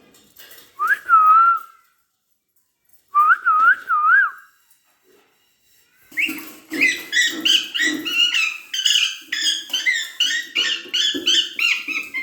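Alexandrine parakeet whistling: one clear rising whistle, then three quick wavering whistle notes, then a long run of rapid, repeated chattering calls.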